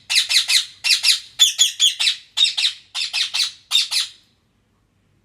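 Pet green parrot giving loud, harsh squawks in quick runs of two or three, stopping a little after four seconds in. The owner takes the squawking for sulking anger.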